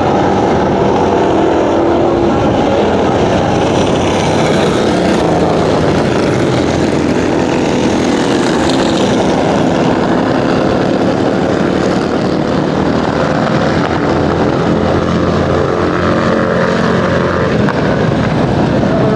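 Motorcycle engines running at speed, several engine notes overlapping and slowly rising and falling in pitch.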